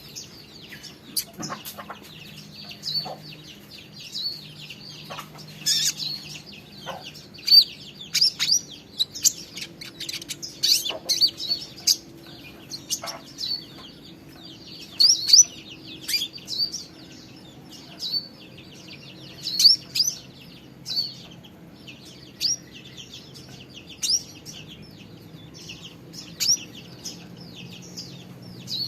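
Fledgling songbird chirping: short, high, sharp chirps repeated irregularly, sometimes several in quick succession.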